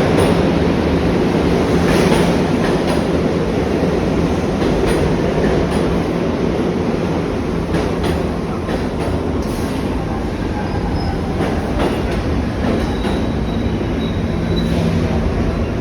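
New York City subway train running through the station: a steady rumble of wheels on rails with scattered sharp clicks, and a faint high wheel squeal in the later part.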